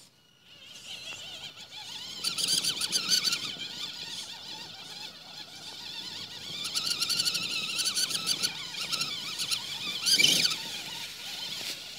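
A radio-controlled truck's motor and gears whining at high pitch, wavering up and down with the throttle as it drives through mud. The whine fades in over the first couple of seconds, with a short, louder burst about ten seconds in.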